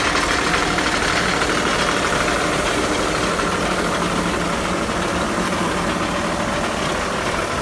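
Tractor engine running steadily while driving a tractor-mounted sprayer.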